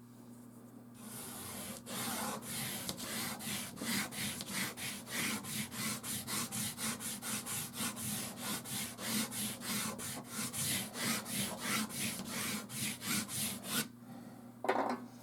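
Rapid back-and-forth rubbing strokes on a soft-pastel-covered canvas, about three a second and scratchy, starting about a second in and stopping near the end. A short knock follows just before the end.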